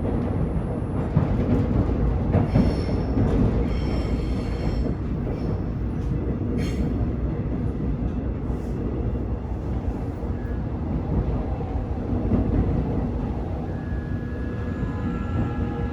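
A train running on the rails, a steady heavy rumble with brief high squealing tones a few seconds in and a sharp click about halfway through.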